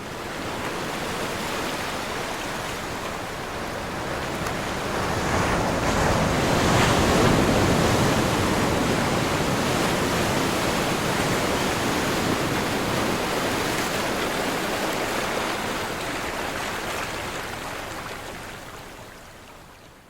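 Ocean waves crashing: a rush of surf that swells to its loudest about seven seconds in, then a long wash that slowly dies away.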